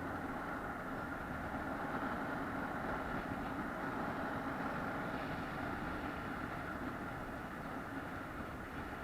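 Steady drone of a vehicle's engine and road noise, even and unchanging throughout.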